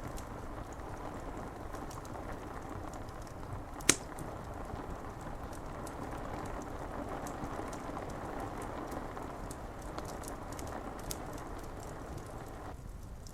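Steady rain pattering on window glass, with a wood fire crackling in scattered sharp pops over it, one loud pop about four seconds in. Near the end the rain's hiss suddenly thins.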